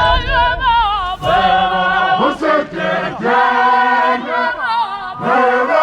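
Music with choir-like sung voices holding long notes, wavering in vibrato at the start and then sustained chords broken by short pauses.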